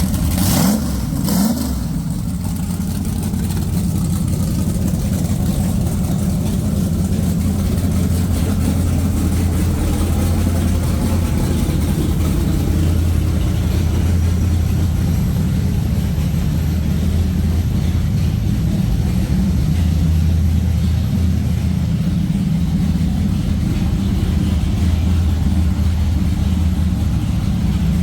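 Custom Schumaker Racing 598ci big-block V8 with through-hull exhaust, run on a propshaft dyno: a brief rev falling away near the start, then the engine runs steadily at an even speed.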